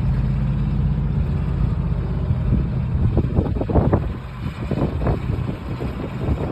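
Tractor engine running at a steady speed. From about two and a half seconds in, its steady note drops back under a run of irregular knocks and bumps.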